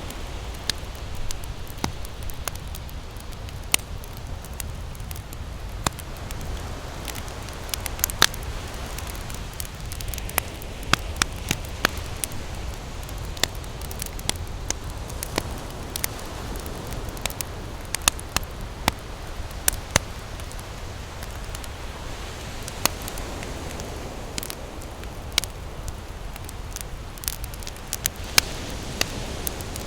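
Wood campfire crackling, with frequent sharp, irregular pops and snaps. Beneath it is a steady low rumble and a wash of ocean waves that swells and ebbs.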